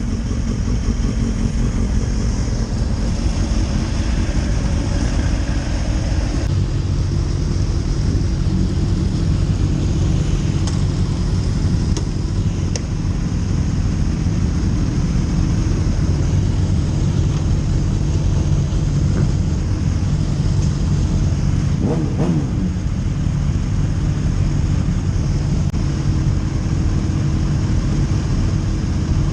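Motorcycle engines running with a steady low rumble, with a brief rise and fall in pitch about 22 seconds in.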